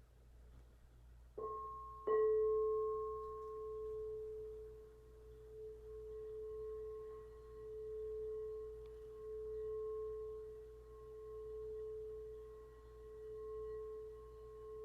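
Quartz crystal singing bowl struck twice, softly about a second and a half in, then harder half a second later. It rings on in one sustained tone that swells and fades in slow waves.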